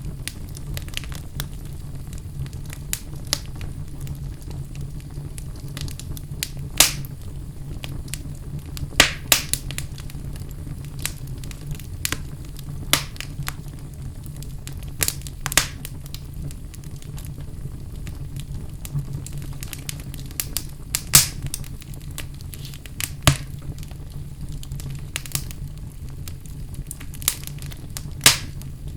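Wood fire burning in a fireplace: a steady low rumble with irregular crackles and sharp pops from the burning logs, a few pops standing out louder.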